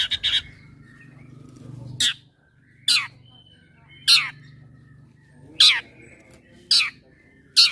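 Long-tailed shrike (cendet) calling: a quick run of clipped notes, then six sharp calls about a second apart, each sweeping steeply down in pitch.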